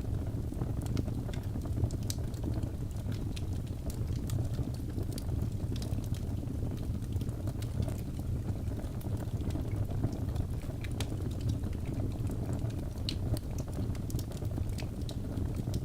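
Birch logs burning in a fireplace: a steady low rumble of the flames with frequent small, sharp crackles and pops scattered throughout.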